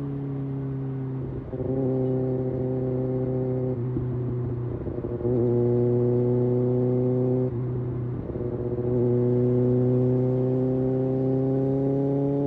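Kawasaki ZX-6R inline-four engine and exhaust running under way at a steady pitch. The note breaks up roughly three times and then comes back louder, and it climbs slowly near the end.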